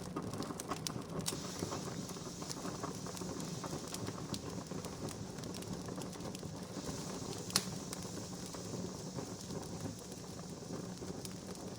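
Wood fire crackling steadily, with many small snaps and one louder pop about seven and a half seconds in.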